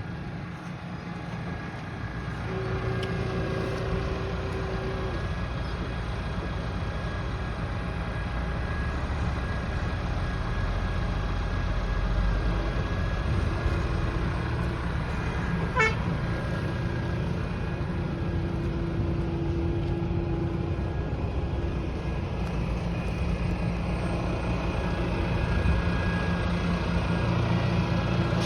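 Deutz-Fahr 80 hp tractor harvester's diesel engine running steadily with a low rumble. A short steady tone sounds about three seconds in and again for a few seconds around the middle, and there is one sharp click a little past halfway.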